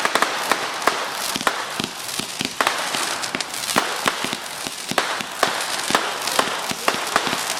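Fireworks going off: a rapid, irregular string of sharp bangs and pops, several a second, over a steady crackling hiss.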